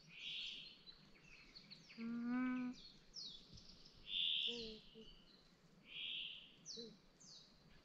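Small birds chirping: short high notes that sweep downward, and a buzzy call about every two seconds. About two seconds in comes a single low, drawn-out call lasting under a second.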